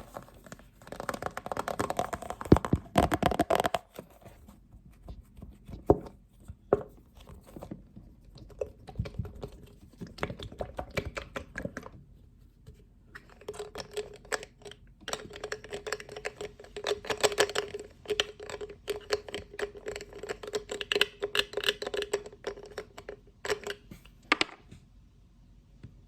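Tapping and scratching on a lid: quick runs of small taps and scrapes. In the longer second run a steady ringing note sounds under the taps, and everything stops shortly before the end.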